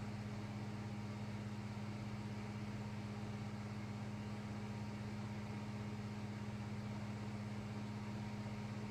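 Steady low electrical hum with a faint high tone and background hiss, unchanging throughout, with no distinct events.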